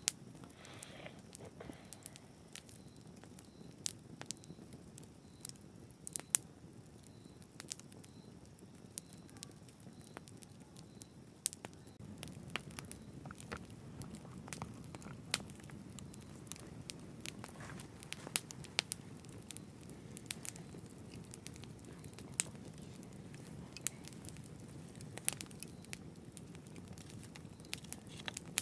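Campfire crackling, with sharp irregular snaps and pops over a low steady rumble of the burning fire. The rumble grows a little louder about twelve seconds in.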